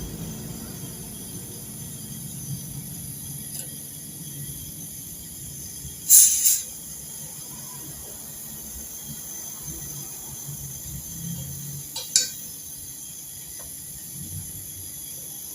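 Refrigerant gas hissing sharply for about half a second from the charging hose and valve, and once more briefly later, over a low steady machine hum.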